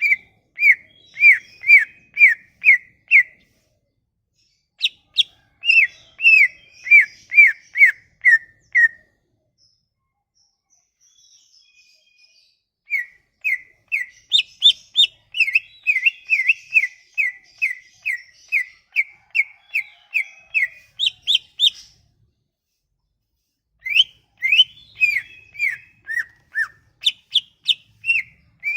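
Songbird singing in four runs of quick, repeated, downward-sliding whistled notes, about two to three a second, with a few higher notes mixed in and short pauses between runs.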